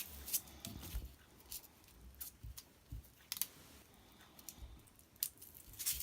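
Irregular light clicks and crackles of hands handling and working craft materials at a table, with no steady rhythm.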